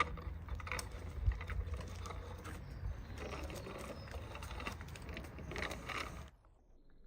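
Irregular clicks, knocks and rattles of small plastic toy vehicles being handled, over a steady low hum; the sounds cut off suddenly about six seconds in.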